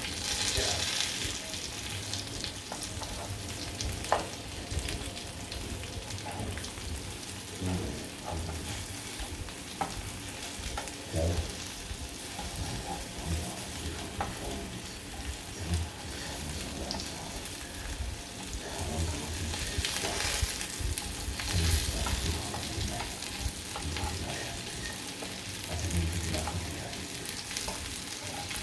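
Food sizzling in hot oil in a pan, with the scattered clicks and knocks of a utensil stirring against the pan.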